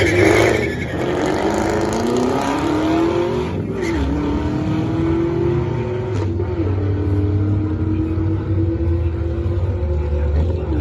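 2017 Camaro ZL1's supercharged 6.2-litre V8 launching off the line at full throttle, its pitch climbing through the gears with shift drops about four and six seconds in as the car pulls away down the drag strip.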